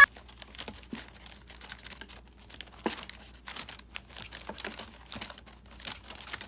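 Irregular light clicks and crinkling, scattered unevenly with a few sharper ticks.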